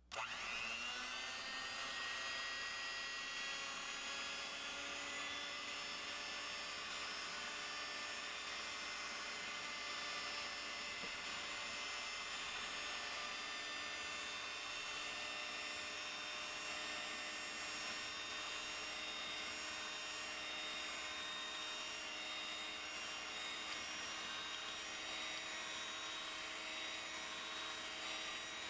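Electric mixer starting up and running steadily at constant speed, whipping egg white for macaron meringue; its pitch rises briefly as the motor spins up.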